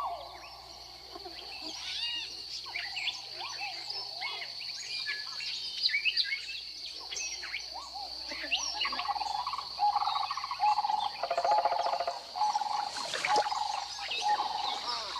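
Swamp wildlife chorus: many birds chirping and whistling over a steady high-pitched insect drone. A lower, repeated trilling call joins about halfway through and grows louder.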